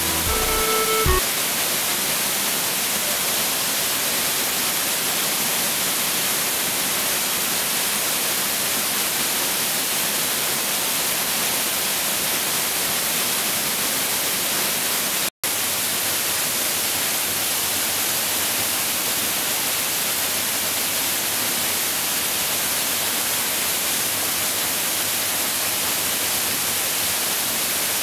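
Waterfall's steady, even rushing noise, after a last bit of music fades out about a second in; the sound drops out for an instant about halfway through.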